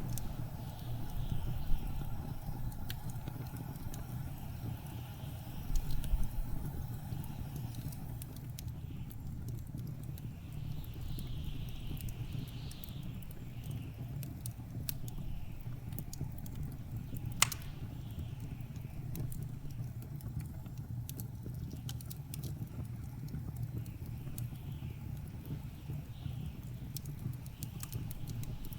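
Wood fire crackling in a fireplace, scattered clicks with a few sharper pops, over a steady low rumble of blizzard wind whose hiss swells and fades in gusts.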